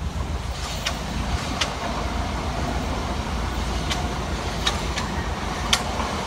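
Electric multiple-unit passenger train running past close by: a steady rumble, with about five sharp clicks from the wheels on the rails, the loudest near the end.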